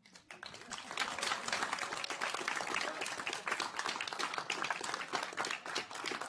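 A room full of people applauding, the clapping rising quickly within the first second and then going on steadily, in celebration of a successful first flight being confirmed.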